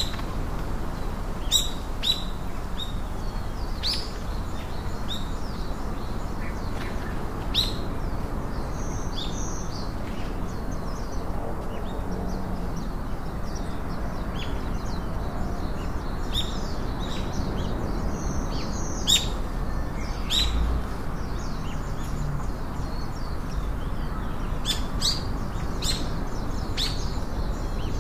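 Small birds chirping: short, high, sharp chirps, often falling in pitch, come irregularly all through, with a steady low background noise beneath.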